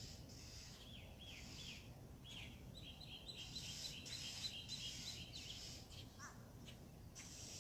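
Backyard songbirds singing: a few short curved chirps, then a quick run of high repeated notes lasting a couple of seconds, over a high hiss that comes and goes.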